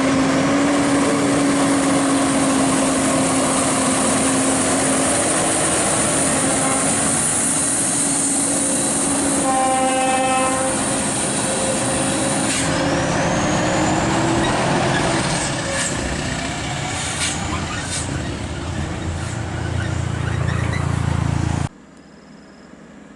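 Scania R580's V8 engine drones heavily as the loaded truck comes past. A short horn note sounds about ten seconds in, the sound eases off partway through, and it cuts off suddenly near the end.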